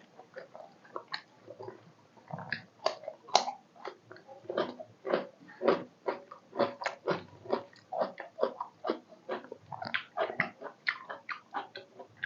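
A person chewing food close to the microphone: a steady run of short, wet chewing and mouth sounds, about two a second, from a mouthful of rice with meat curry and salad.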